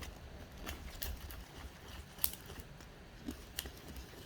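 A mixing tool stirring slime glue in a bowl, making faint, irregular light clicks and scrapes against the bowl.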